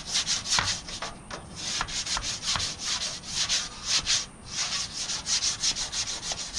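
Chalk being scrubbed across gritty asphalt shingles in quick repeated strokes, about three or four a second, with a couple of short pauses, as roof damage is marked.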